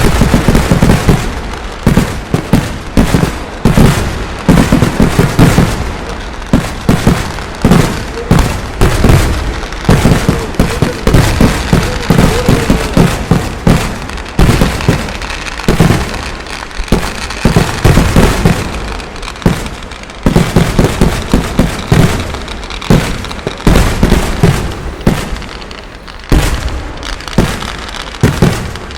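A festival fireworks barrage: a dense, continuous run of rapid firecracker bangs and explosions, with the loudness swelling and dipping in waves.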